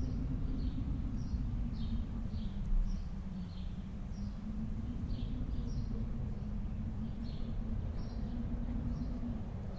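Snowstorm wind, a steady low rumble with a faint low howl. Small high chirps sound about twice a second over it.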